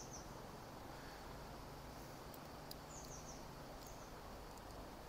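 Faint steady background hiss with a few small-bird chirps: short, high, falling notes in little clusters, once at the start and again around three to four seconds in. Several faint ticks come in between.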